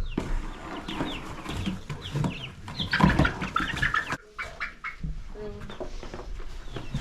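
Young chickens, nearly seven-week-old pullets, peeping and cheeping over and over in short falling chirps, with a louder, noisier burst about three to four seconds in.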